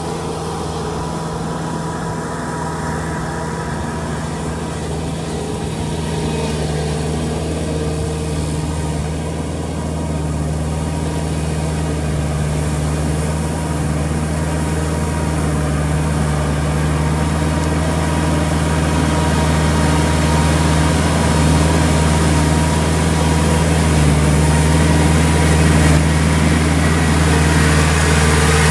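Kubota L3408 tractor's diesel engine running steadily while pulling a rotavator through a puddled field, getting gradually louder.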